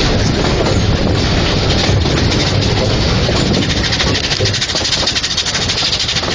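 Quarry Hunslet narrow-gauge steam locomotive running close by: a loud, steady hiss and rumble, with a rapid run of fine ticks near the middle.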